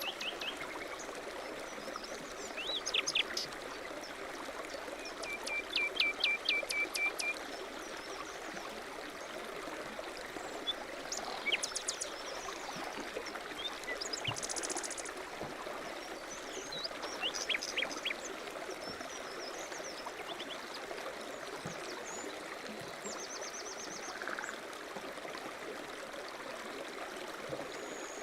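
A stream running steadily, with songbirds chirping over it: scattered short calls throughout, a quick series of notes about five seconds in, and a fast high trill near the middle.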